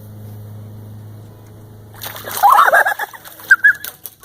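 Startled ducks break into loud, harsh quacking about halfway through, over a sudden noisy rush of splashing and flapping, then a couple of short quacks and sharp knocks near the end. A low steady hum runs under the first half.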